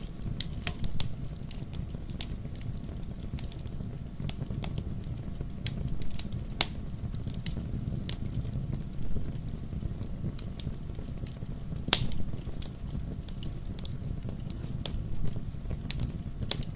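Wood fire crackling, with scattered sharp pops over a steady low rumble; the loudest pop comes about 12 seconds in.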